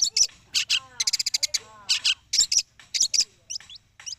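Long-tailed shrike (cendet) singing its learned mimicry song: loud, harsh chattering bursts mixed with gliding whistled notes, giving way near the end to a quick run of short rising chirps.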